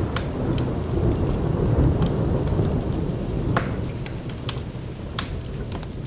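Rolling thunder over steady rain, the rumble swelling about two seconds in and slowly fading, with the sharp pops and crackles of a fireplace scattered through it, the loudest pop near the end.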